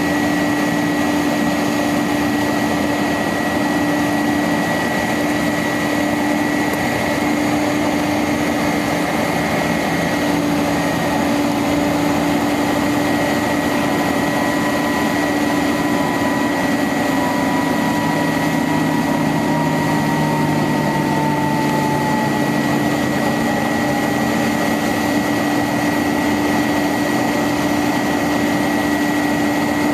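The engine of a 1999 International 4900 bucket truck running at a steady speed, with a steady whine over it; a faint tone slides slowly down in pitch about two-thirds of the way through.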